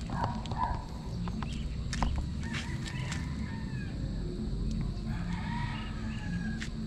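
Bird calls in the background: a short call about three seconds in and a longer drawn-out call from about five seconds, over scattered light clicks.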